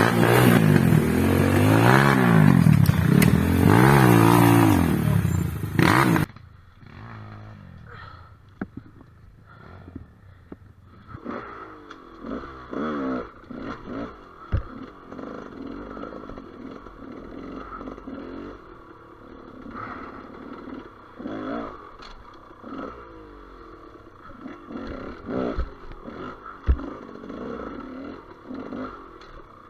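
Enduro motorcycle engine revving up and down hard for about six seconds, then the sound drops suddenly to a much quieter, muffled engine with scattered knocks and clatter.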